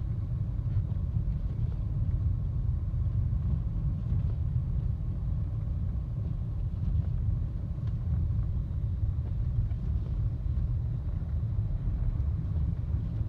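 Steady low rumble of a car driving on a snowy road, heard from inside the cabin: road and tyre noise from Michelin CrossClimate 2 all-weather tyres, with the engine underneath.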